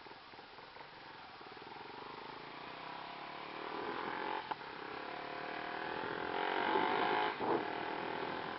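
Honda Twister's single-cylinder motorcycle engine pulling away and accelerating: the engine note rises and grows louder, briefly dipping twice as it goes.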